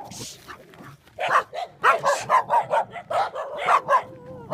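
Dogs barking repeatedly in quick succession, starting about a second in, several barks a second.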